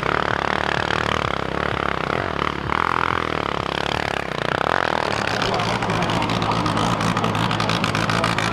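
Hill-climb motorcycle engine running at high revs. About five and a half seconds in, its firing turns into a dense, even rattle.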